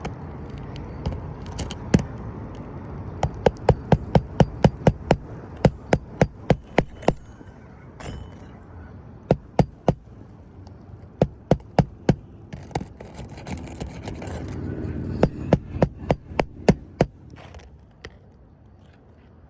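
Hammer driving roofing nails into a new shingle, in quick runs of sharp strikes with short pauses between nails.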